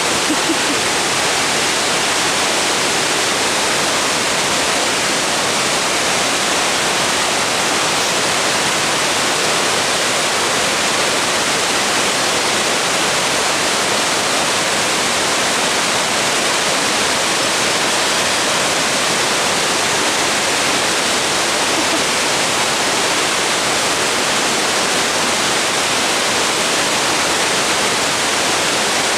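Fast mountain river rushing over rocks, a loud, steady, unbroken roar of water.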